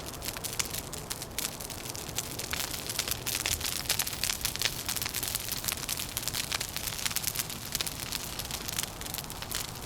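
Wood fire crackling, with many small irregular pops and snaps, over a steady low rumble.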